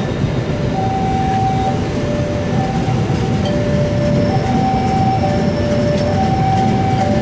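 Train running past with a steady rumble. Over it sounds a two-tone warning alarm that alternates high and low, each tone lasting under a second.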